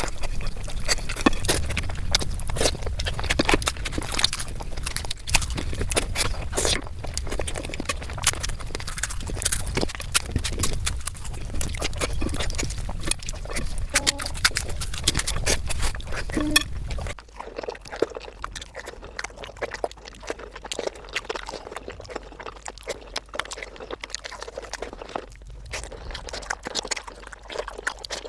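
Close-miked wet chewing and lip smacking of someone eating mutton curry: dense, irregular mouth clicks. About two-thirds of the way through, a low background hum drops out and the eating sounds become quieter.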